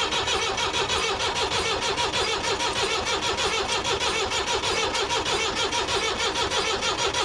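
Perkins 4203 four-cylinder diesel in a 1962 Lancing Bagnall forklift turning over on the starter with a steady, even chugging. It is trying to start on one cylinder without yet running cleanly.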